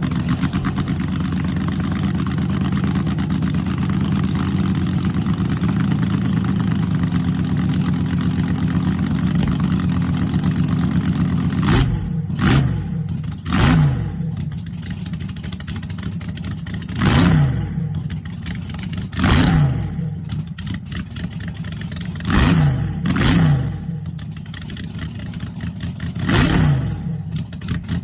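Small-block Chevrolet V8 of an altered drag car running with a lumpy idle just after being fired up. From about twelve seconds in it is blipped hard about seven times, each rev rising and falling sharply.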